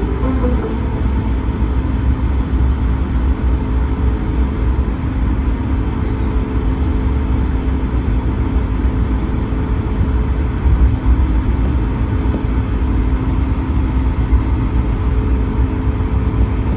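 Airbus A220-300 taxiing, heard from inside the cabin: a steady low rumble from the idling Pratt & Whitney PW1500G geared turbofans and the wheels rolling on the taxiway, with a faint steady hum over it.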